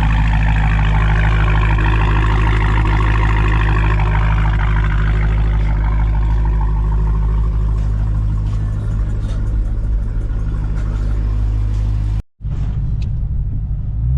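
Dodge Challenger Hellcat's supercharged 6.2-litre Hemi V8 idling steadily while it warms up after a cold start, its exhaust running with the mid pipes deleted. The sound cuts out abruptly about twelve seconds in, then the engine returns.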